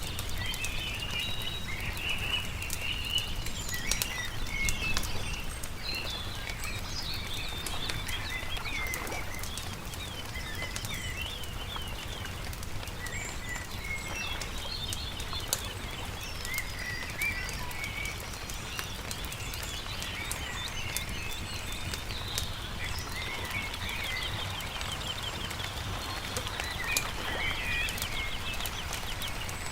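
Several small birds chirping and trilling, with the scattered crackle and pops of a wood campfire and a steady low rumble underneath.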